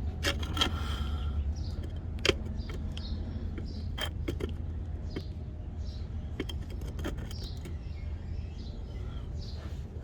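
Scattered light metallic clicks and clinks of hand tools working at the rear shock's top bolt, over a steady low hum.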